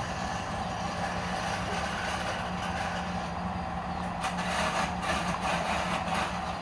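Wood lathe motor running steadily with a constant hum. About halfway through, a run of rough, irregular rasps is added on top.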